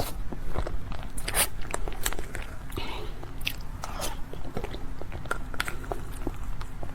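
Close-miked crisp bites and chewing of a hollow, airy "air box" snack: a quick string of sharp, separate crunches and crackles.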